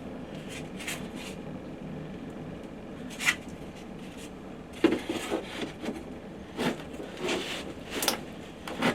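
Pine cladding boards knocking and scraping as they are handled into a tight compartment: one knock about three seconds in, then a run of knocks and scrapes over the last four seconds.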